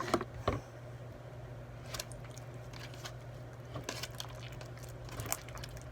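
Cloud slime being mixed and squished with conditioner, giving scattered soft wet squelches and clicks over a steady low hum.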